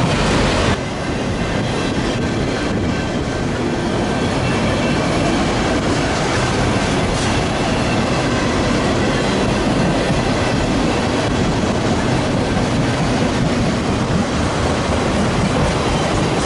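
Freight train of empty auto-rack cars rolling past steadily, wheels running over the rails. The level dips briefly about a second in.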